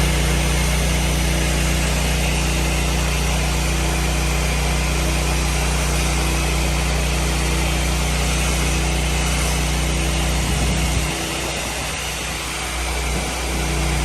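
Pressure-washing rig's engine running steadily under load. About eleven seconds in, its note drops and thins out for a couple of seconds, then comes back up.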